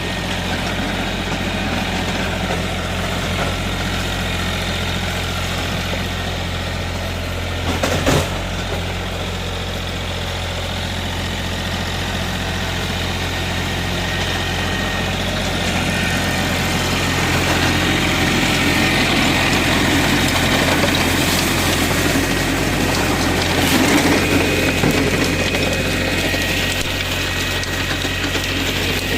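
Mahindra OJA 2130 compact tractor's diesel engine running steadily, driving a rotavator. There is a sharp knock about eight seconds in.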